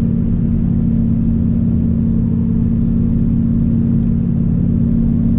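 Turbocharged Dodge Ram SRT-10's V10 engine and fender-dump exhaust running steadily at an even cruising speed, heard from inside the cab, with a constant low tone throughout.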